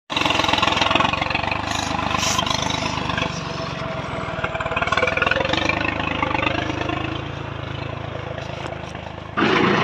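Tractor engine running steadily under work, with a lot of rattling mechanical noise over the low engine note, and a short louder burst of noise near the end.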